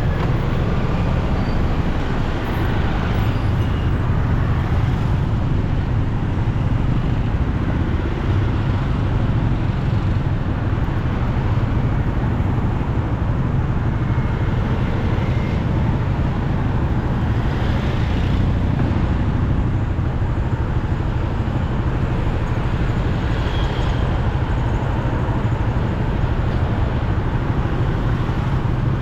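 Steady road, wind and engine noise from a motorcycle riding through city traffic, strongest in the low range and unbroken throughout.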